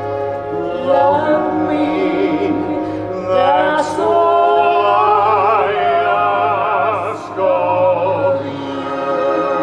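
Operatic-style singing with long wavering held notes over orchestral accompaniment.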